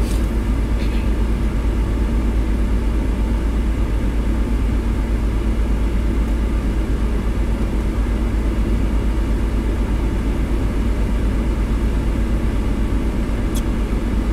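Steady low hum of a parked car's engine idling, heard from inside the cabin, with a couple of faint clicks near the start and near the end.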